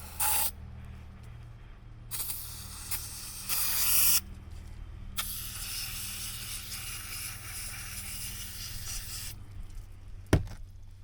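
Aerosol brake cleaner spraying onto a hydraulic pump's intake screen to wash off debris: a short spray, a couple of seconds of spraying, then one long steady spray of about four seconds. A sharp knock near the end.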